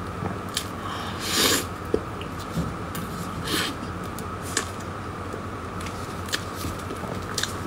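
Close-up mouth sounds of someone eating a soft cream-filled dessert: wet chewing and lip smacks with scattered small clicks. Two short louder squelches come about one and a half and three and a half seconds in, over a steady background hum.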